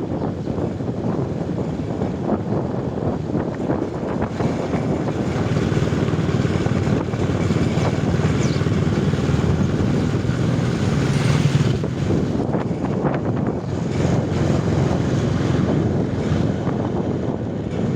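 Wind buffeting the microphone, with a steady low rumble underneath that swells a little in the middle and then eases.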